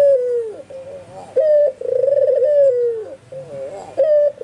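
White albino puter (ringneck dove) cooing repeatedly: each coo is a short note followed by a rolling trill that slides into a long falling note, one coo starting about every two and a half seconds.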